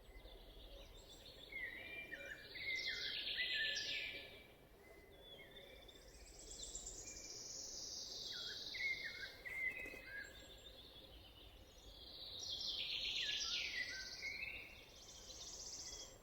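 Songbirds singing in a forest: three song phrases about five seconds apart, each a quick run of high trilling notes, over a faint steady background.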